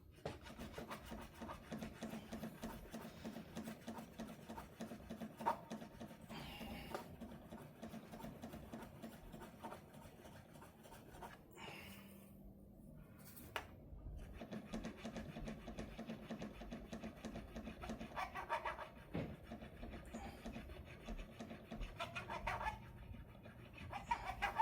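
Scratching and rubbing of an abrasive worked over the guitar's metal frets during fret levelling.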